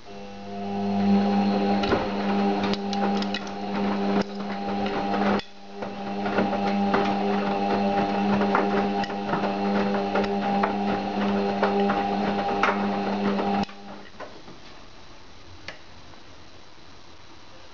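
Beko washing machine running: a steady mechanical hum with rattling and clicking. It dips briefly about five seconds in and cuts off suddenly after about fourteen seconds.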